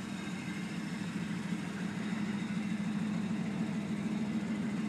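A 1994 Pontiac Firebird's 3.4-litre V6 idling steadily through a Flowmaster exhaust, low and even, growing slightly louder toward the end.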